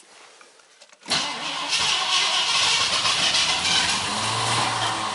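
Starter cranking the carbureted 351 V8 of a 1981 Mercury Grand Marquis in a −26 °C cold start, starting suddenly about a second in and going on steadily without the engine taking. The owner takes it to be flooded from pumping the throttle, blaming a leaky power valve.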